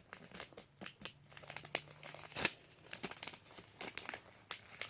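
A sheet of paper being folded and creased by hand: a run of irregular crinkles and crackles, the loudest about two and a half seconds in.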